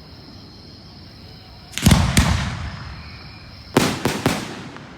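Aerial fireworks bursting: two loud booms about two seconds in that trail off in a rumble, then a quick run of three or four sharper bangs near the four-second mark.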